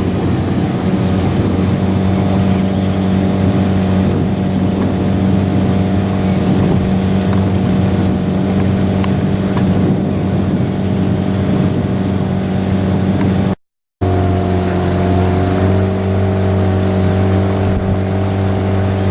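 Motorboat engine running steadily, with a brief cut to silence about fourteen seconds in.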